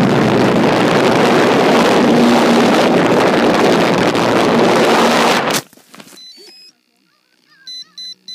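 Loud rush of wind and motor noise on a phone microphone riding aboard a homemade airplane, cutting off abruptly about five and a half seconds in. Near the end, three short high beeps.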